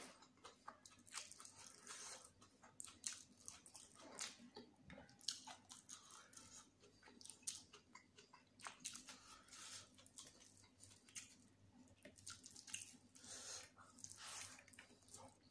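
Faint, close-up chewing of chicken biryani: irregular wet mouth clicks and smacks as the food is bitten and chewed.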